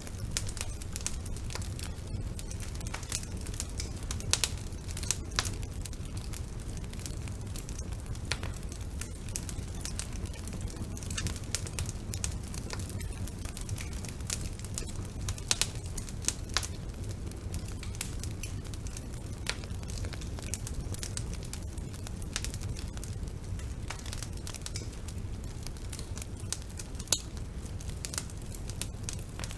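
Wood fire burning in a fireplace: a steady low rumble of flame under frequent sharp crackles and pops, with a few louder pops scattered through it.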